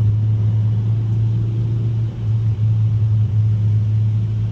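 2021 Mazda 3 Turbo's turbocharged four-cylinder cruising: a steady low engine and exhaust drone with road noise, dipping slightly about two seconds in.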